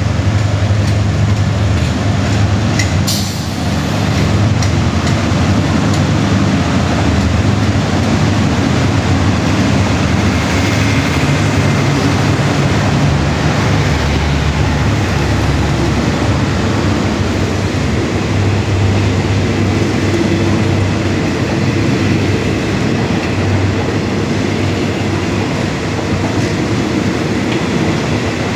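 Passenger coaches of a diesel-hauled train rolling past close by as it pulls out of a station: a steady loud rumble of wheels on rail under a constant low hum, with one sharp clack about three seconds in.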